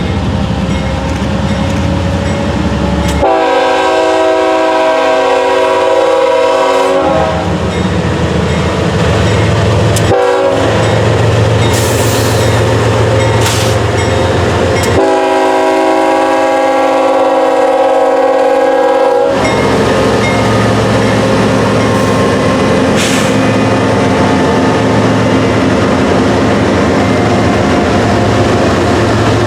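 Diesel freight locomotive horn sounding a long blast of about four seconds, a brief toot, then another long blast, over the steady rumble of the locomotive engines and the rolling train.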